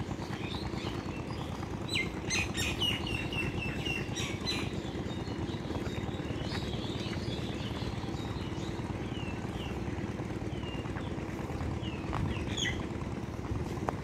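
Birds chirping in short high calls, a cluster about two seconds in and more scattered through the rest, over a steady low rumble like a running engine.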